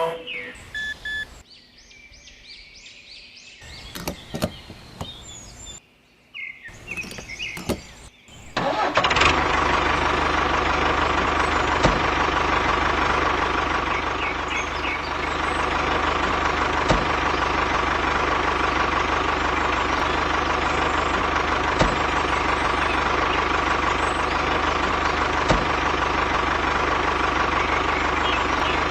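Scattered clicks and knocks, then about nine seconds in an engine-like running sound starts abruptly and runs steadily on.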